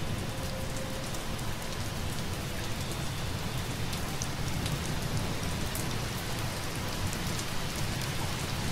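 Steady rain ambience: an even patter of rain with faint scattered drips and a low rumble underneath.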